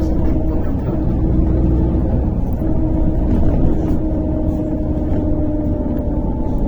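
Inside a MAZ-103 city bus under way: steady engine and road drone with a held whine, which sinks slightly in pitch near the end as the bus eases off.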